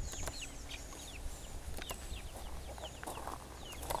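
Birds calling in many short, quick falling chirps, over a low steady rumble.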